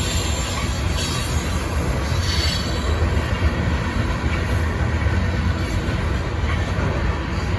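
BNSF coal train cars rolling past on the rails: a steady low rumble of wheels on track, with a brief faint wheel squeal about two seconds in.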